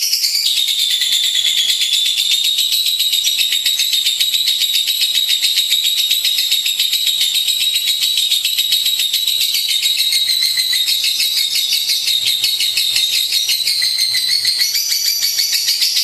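Lovebird singing a long, unbroken, high-pitched rapid trill.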